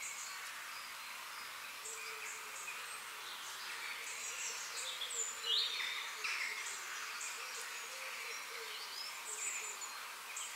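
Small birds chirping in short calls, with a quick rising-and-falling call about five seconds in, over a faint steady outdoor hiss.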